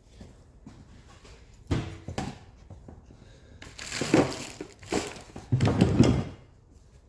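Clunks and scrapes of metal parts and tools being handled during removal of the exhaust manifold from the engine: two clunks, then rougher scraping and knocking that grows louder toward the end.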